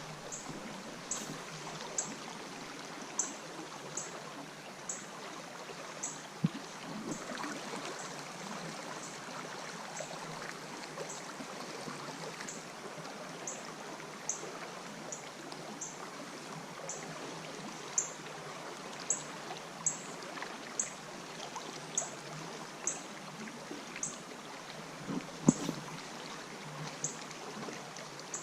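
River water flowing steadily, with a faint high tick repeating about once a second. A couple of louder knocks come through, one about six seconds in and one near the end.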